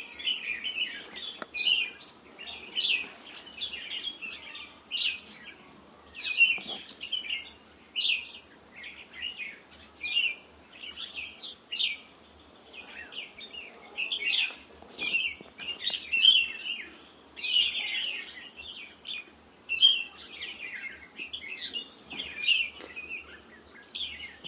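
Small birds chirping continuously, a rapid run of short, high chirps with brief gaps.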